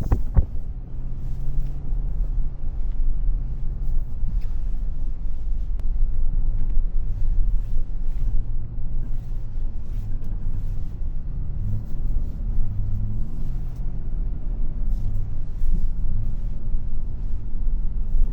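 Pickup truck engine and drivetrain rumbling inside the cab while driving on snow, the engine note rising and falling a little as the throttle changes.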